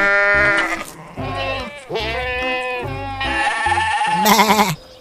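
Sheep bleating: about five long calls one after another, the loudest near the end with a quavering, wavering pitch.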